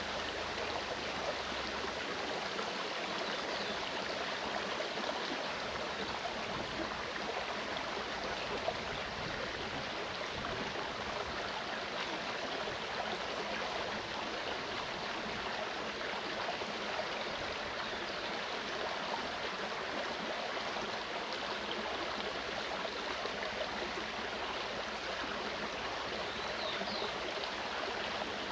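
Clear mountain stream flowing steadily: a continuous, even rush and babble of running water.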